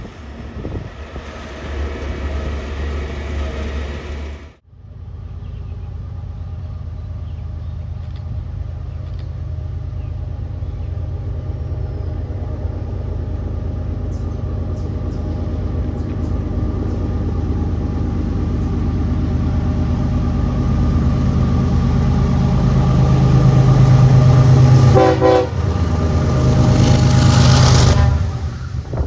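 Diesel locomotives of a train running by, heard in two clips: after a sudden cut about four seconds in, the engine sound builds steadily as the train approaches, is loudest near the end, then cuts off.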